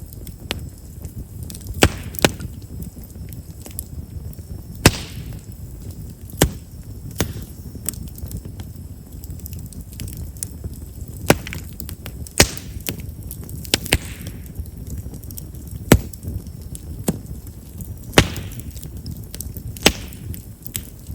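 Chestnut firewood burning in an open fire, crackling with about a dozen sharp, irregular pops over a low steady rumble of the flames, with a few brief hisses. Chestnut's large pores make it a wood known for popping as it burns.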